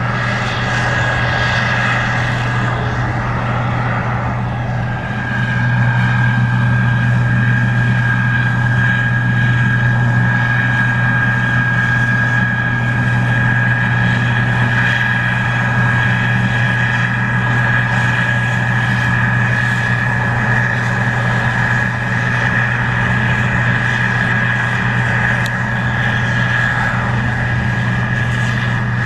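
Case IH 2144 Axial-Flow combine running under load while harvesting corn: a steady low hum with a constant high whine over it, getting a little louder about five seconds in.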